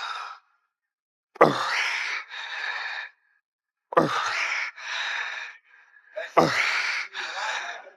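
A man breathing hard through the reps of a set: three times, about every two and a half seconds, a short forceful exhale that falls in pitch is followed by a quick hissing breath.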